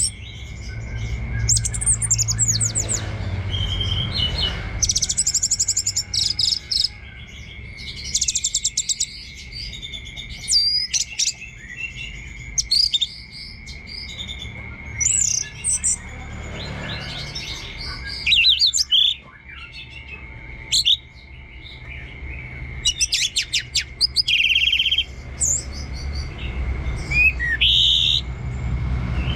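Orange-headed thrush singing a long, varied string of rapid chirps and trills, broken by short pauses. A steady high tone runs underneath.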